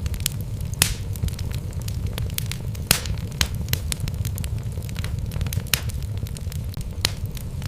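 Wood logs burning in a fireplace: irregular crackles and sharp pops over a steady low rumble of the flames, with the loudest pops about a second in and about three seconds in.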